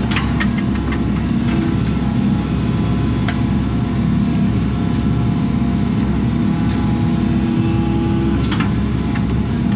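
Diesel engine of a compact earthmoving machine running steadily under working load, as material is spread. A few sharp clicks are scattered through it.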